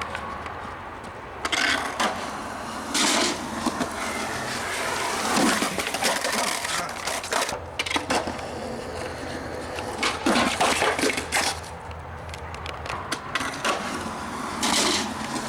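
Skateboard wheels rolling, with several sharp clacks and slaps of the board hitting the ground at irregular moments.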